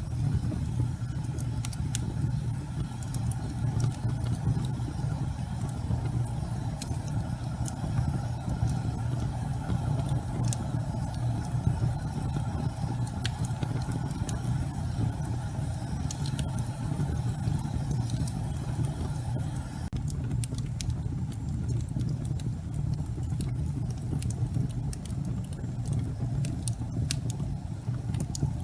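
Logs burning in a fireplace: a steady low rumble of the fire with scattered sharp crackles and pops throughout.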